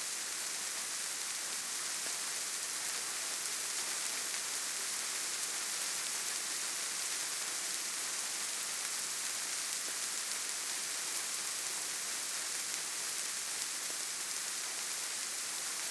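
Steady rainfall in a forest, an even hiss that is strongest in the high treble, with no single drops, thunder or other events standing out.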